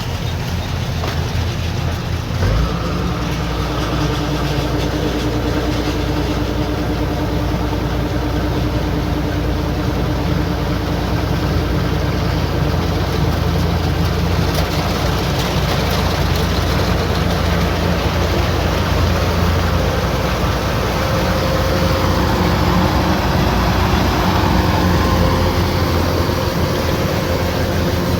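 Kubota rice combine harvester running steadily, a continuous engine drone with dense machinery noise over it. A short knock comes about two and a half seconds in.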